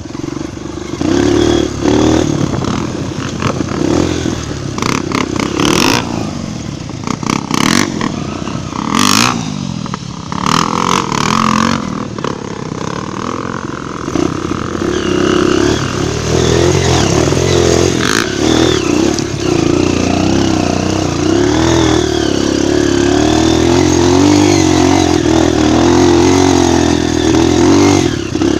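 Honda trail motorcycle's single-cylinder four-stroke engine revving up and down as it is ridden over a rough dirt trail. Sharp knocks and clatter from the bike jolting over bumps come several times in the first half. The engine then pulls more steadily near the end.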